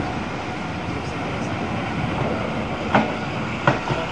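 Steam-hauled train running along the track, with a steady rumble of wheels on rail and two sharp knocks about three seconds in as wheels pass over a rail joint.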